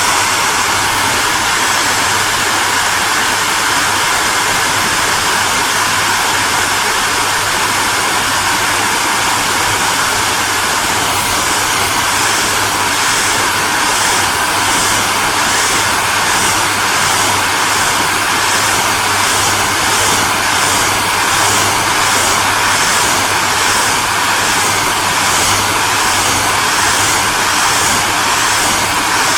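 Electric hairdryer running steadily: a continuous rush of blown air over a low motor hum, with a faint high whine. From about eleven seconds in, the top of the hiss pulses gently, about one and a half times a second.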